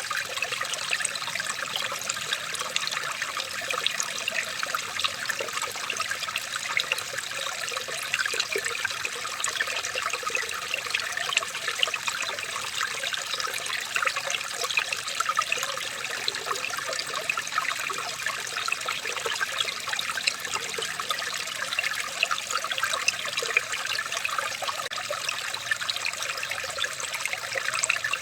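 Running water trickling and splashing steadily, a continuous stream of small bright splashes.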